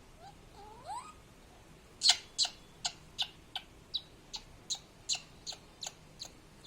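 Pet parrot calling: two rising whistled glides, then a quick run of about a dozen short, sharp squawks, about three a second, the first ones loudest.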